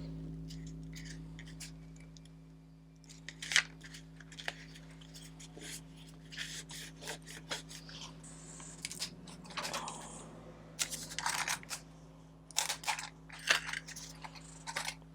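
Paper and card being handled and pressed on a craft desk, with scattered sharp clicks and taps and short rustles, over a steady low hum.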